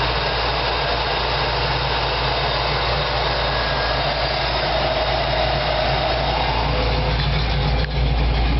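Chevy 350 V8 with a ProComp thumper cam and MSD Atomic EFI throttle-body fuel injection, idling steadily.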